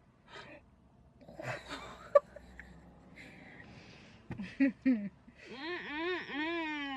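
Wordless vocal sounds from a person: short breathy noises, then near the end a run of rising-and-falling pitched notes like laughing or whimpering. A sharp click about two seconds in is the loudest sound.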